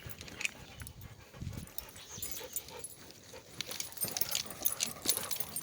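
A dog panting, with quick clicks and crackles that grow busier about two seconds in.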